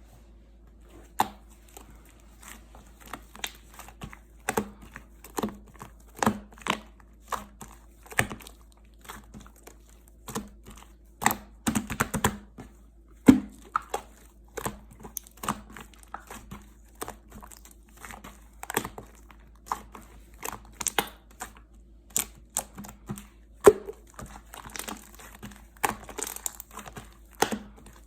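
Slime being pressed and squeezed by hand, giving an irregular run of sharp clicks and pops, about one or two a second.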